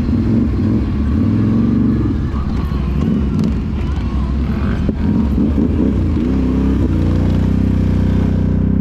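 Off-road vehicle engine running and revving, its pitch rising and falling, then holding steadier from about seven seconds in.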